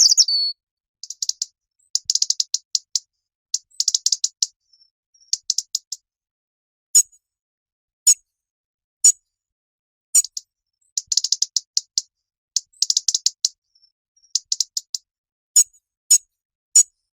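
European robin calling: short bursts of rapid, high-pitched ticking, alternating with single sharp high notes about a second apart, with brief pauses between.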